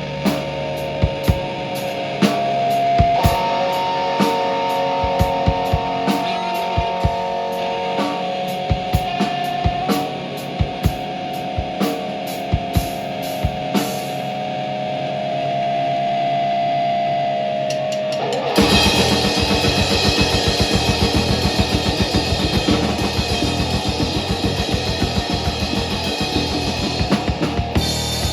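Live band with drum kit and electric guitar: held guitar notes ring over scattered drum and cymbal hits. About two-thirds of the way in, the full band comes in hard with dense distorted guitar and fast, even drumming.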